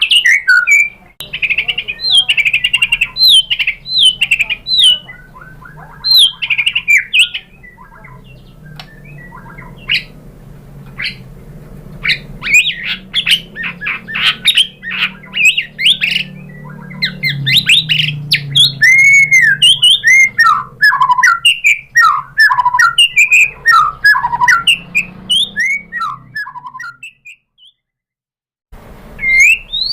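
White-rumped shama singing a fast, varied song of chirps, whistles and harsher notes, a showy run through its repertoire. The song breaks off for about two seconds near the end, then starts again.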